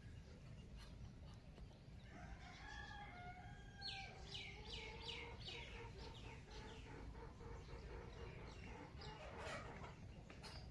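Faint rooster crowing with small birds calling. About four seconds in, a bird gives a quick run of repeated descending notes, about four a second.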